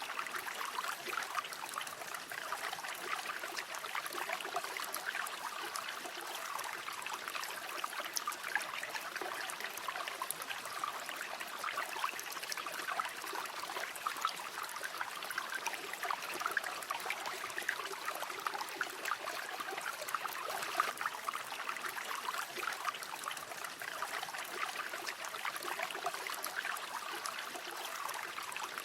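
Shallow river flowing steadily, a continuous babbling and trickling of water.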